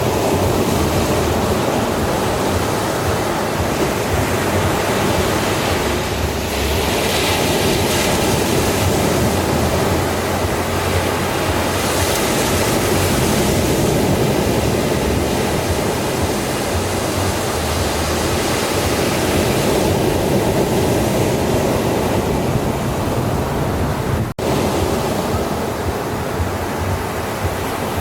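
Sea waves washing onto a beach: a continuous rushing surf, swelling slightly and falling back, with a split-second dropout about three-quarters of the way through.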